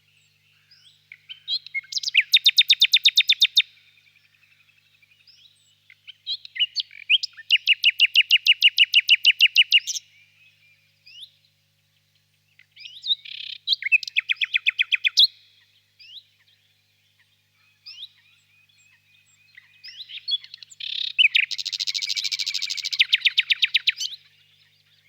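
Nightingale singing: four loud phrases of rapidly repeated notes, each lasting two to four seconds with pauses between them. Fainter, scattered chirps fill the gaps.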